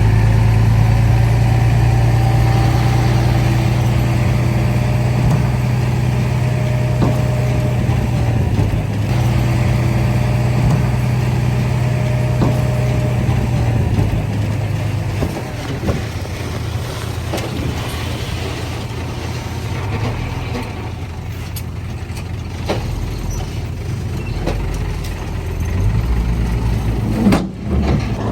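Heavy diesel engine of earthmoving machinery running steadily under load. About halfway through it eases off to a lower, rougher note, with a few faint clanks.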